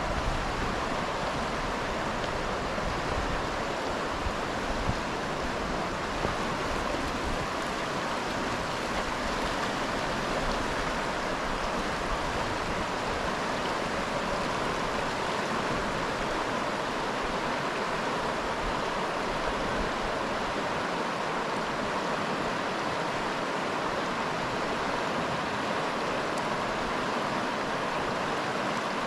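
Flowing river water, a steady even rush with no breaks.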